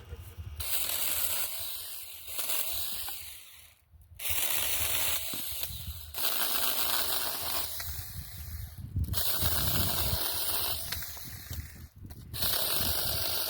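Saker mini handheld battery chainsaw cutting through branches: a high, hissing buzz of the chain in wood, in several runs broken by short pauses as it starts each new cut.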